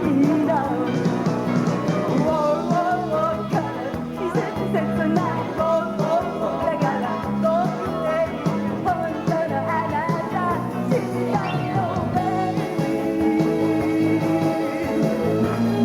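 Live band playing an upbeat rock-and-roll style pop song with guitar and a female lead vocal. The singing stops about twelve seconds in and the band plays on.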